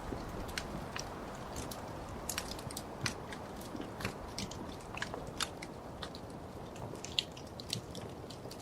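Wood fire crackling in a fireplace: a steady low rumble and hiss of burning logs with sharp, irregular pops and snaps, several a second.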